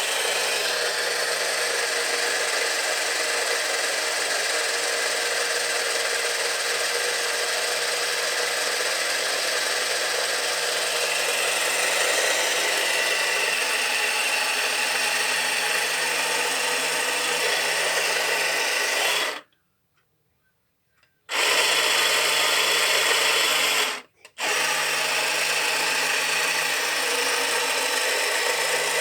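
A small electric motor running with a steady whir. It cuts out abruptly to silence twice, once for about two seconds and once only briefly.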